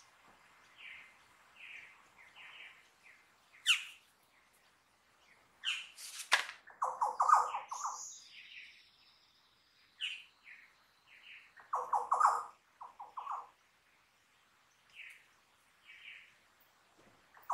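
Wild forest birds calling: scattered short chirps and whistles, a few quick high sweeps, and a loud harsh chattering call about seven seconds in and again about twelve seconds in.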